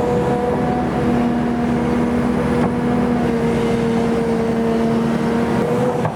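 XCMG XE310GA excavator working, its diesel engine running steadily with a steady whine on top that drops slightly in pitch about three seconds in.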